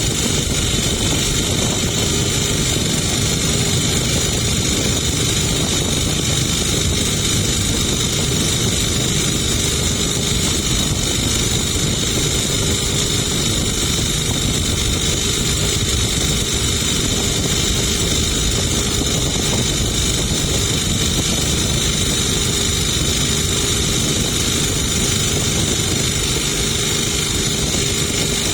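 Boat engine running steadily at a constant speed, with a low rumble and a steady high whine.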